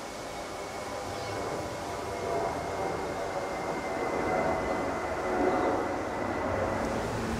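A distant passing vehicle: a steady rumble with a thin high whine, gradually growing louder.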